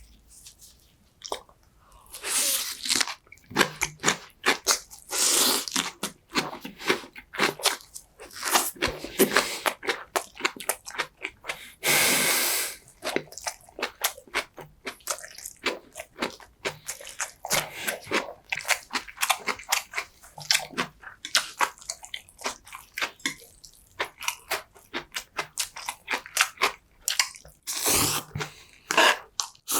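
Close-miked chewing and biting: a person eating jokbal and bibim-myeon, with dense, irregular wet, crunchy mouth clicks and a longer noisy stretch about twelve seconds in.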